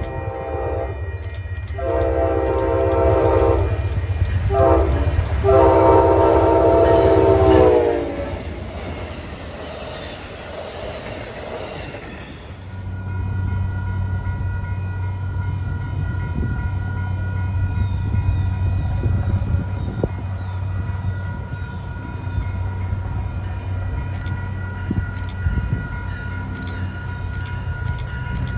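Diesel locomotive air horn sounding several blasts: a long one, a short one, then a long one whose pitch drops as the train passes, over the noise of the passing train. About twelve seconds in, this gives way to a steady low locomotive rumble with steady tones above it.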